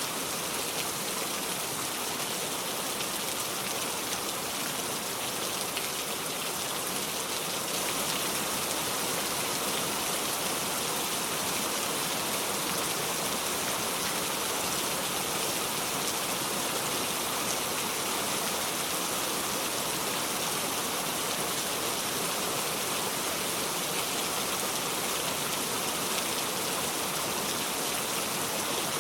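Heavy rain falling steadily, a dense even hiss with no thunder; it grows slightly louder about eight seconds in.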